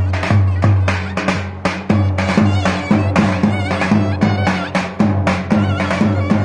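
Turkish folk dance music on davul bass drum and clarinet: a steady, driving drum beat under an ornamented clarinet melody with wavering, trilled notes.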